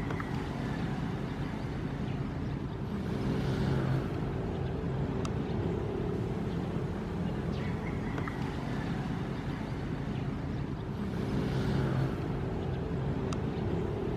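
Ocean surf: a steady low rumble of waves, swelling twice, about eight seconds apart, as waves break.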